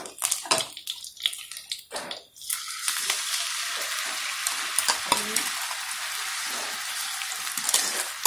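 A few clicks and knocks against a pan, then from about two and a half seconds in a steady sizzle as sweet fish-sauce mixture with chilies hits fried chicken pieces in a hot nonstick wok, with occasional clicks through it.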